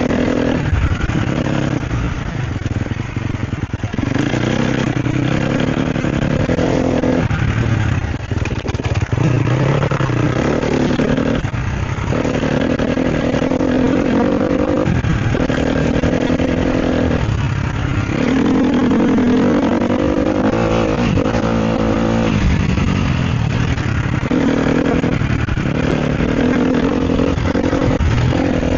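Sherco SEF 250 four-stroke single-cylinder enduro engine under riding load, the throttle opened and shut again and again: rising pulls broken every few seconds by short off-throttle dips, with the knocks and rattles of the bike on rough ground.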